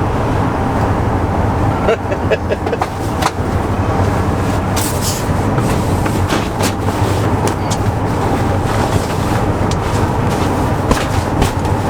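Vehicle road noise: a steady low rumble with scattered sharp clicks.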